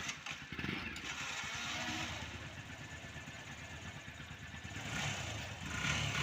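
Motorcycle engine running steadily, a dense run of low firing pulses.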